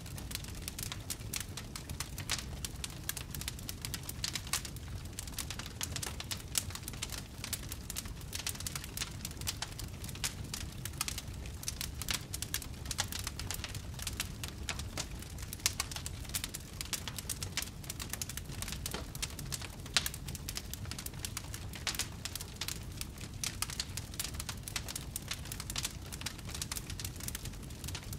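Campfire burning steadily with dense crackling and scattered louder pops over a low rumble of flame.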